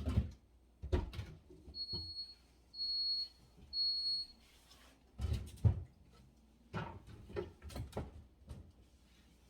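A refrigerator's door-open alarm beeps three times, about a second apart, each a steady high beep of about half a second. Around it come knocks and clunks of containers and shelves being handled, the loudest a thump in the middle.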